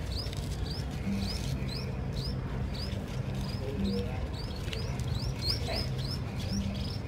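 Small birds chirping in the background: a steady run of short, high, hooked chirps, about two or three a second.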